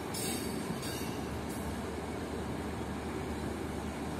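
Passenger coaches rolling past on the rails: a steady rumble of wheels on track, with a couple of brief high-pitched squeals in the first two seconds.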